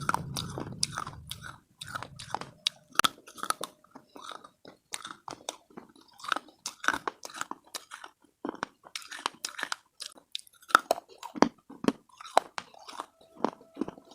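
Pieces of slate being bitten and chewed close to the microphone: a rapid, irregular run of sharp, dry crunches, with a pause of about a second a little past the middle.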